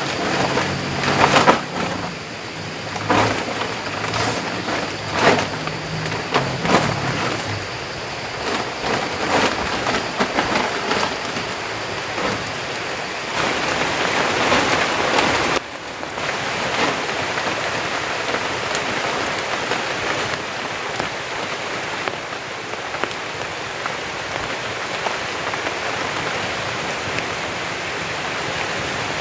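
Heavy tropical rain falling steadily, with several sharp knocks in the first eight seconds or so.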